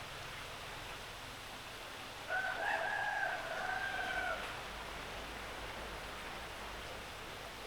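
A rooster crowing once, a call of about two seconds starting a little over two seconds in, over a steady hiss of rain.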